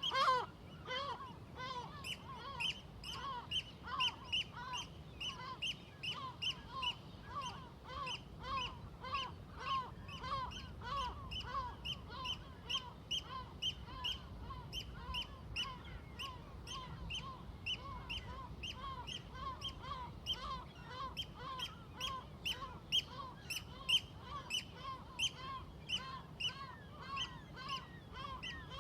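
A flock of seagulls calling constantly, many short overlapping cries in quick succession, over a steady low rumble.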